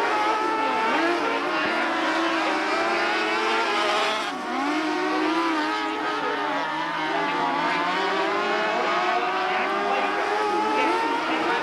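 Engines of several small race cars running together in a race, their pitches rising and falling as the cars rev up and ease off around the track. The sound dips briefly about four seconds in.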